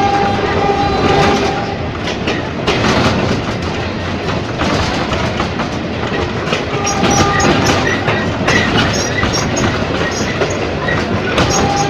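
Ex-JR 203 series electric multiple unit running on track, with the clickety-clack of its wheels over rail joints. A steady whine comes and goes a few times.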